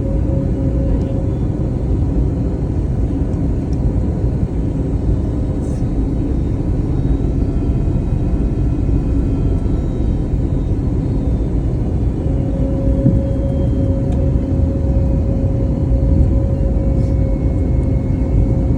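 Airbus A321neo in flight, a steady low rumble of engines and airflow heard from the cabin, with a steady hum that fades out a second or so in and comes back about twelve seconds in.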